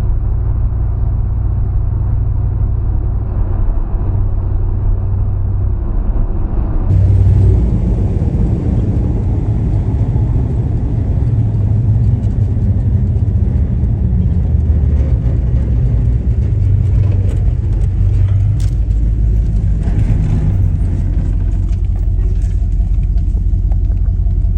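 A truck's engine running with a steady low rumble. About seven seconds in, the sound turns brighter and fuller.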